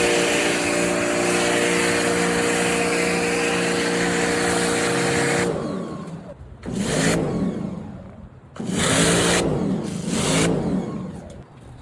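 Pressure washer running: a steady motor hum under a loud spray hiss that stops about five and a half seconds in. Three short bursts follow, the motor winding up and back down with each spray.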